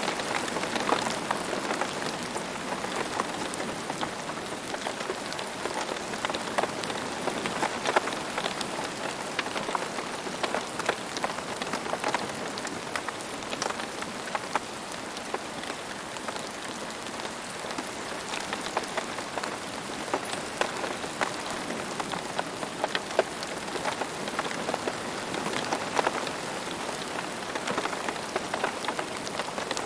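Steady rain falling on a surface, a dense even patter with many distinct individual drop ticks.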